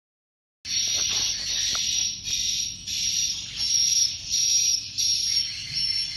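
Swiftlet calls: a dense, high-pitched chirping and twittering that comes in repeated bursts, starting suddenly about half a second in.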